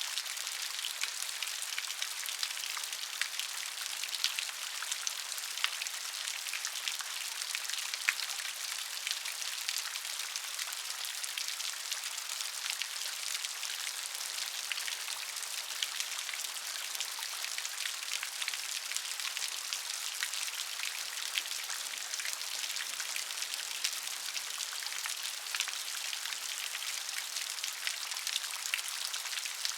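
Steady rain: an even hiss of falling rain with a dense patter of individual drops ticking through it, sitting mostly in the higher range with little low rumble.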